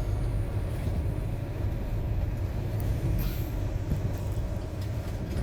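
Train running along the track, a steady low rumble with faint ticks over it.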